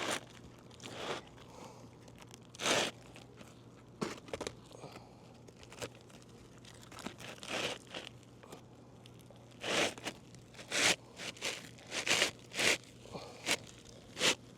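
A new asphalt shingle being handled and fitted into place on a roof, giving irregular scraping and crinkling noises that come thicker and closer together from about ten seconds in.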